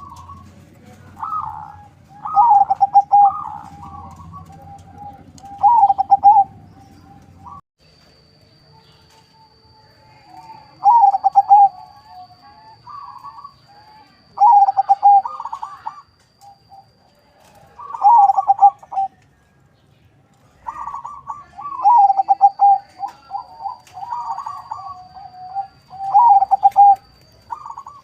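Crossbred local–Bangkok perkutut (zebra dove) cooing: repeated phrases of rolling, trilled coo notes every few seconds with short pauses between them, running longest near the end.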